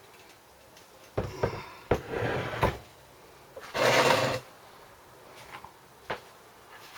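Handling noises from the small engine and its parts on a workbench: a few sharp knocks a little over a second in, a scrape around two seconds, a louder scrape about four seconds in, and one more knock near six seconds.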